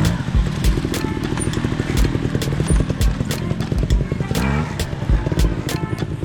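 Trials motorcycle engine running, with a rising rev about four and a half seconds in.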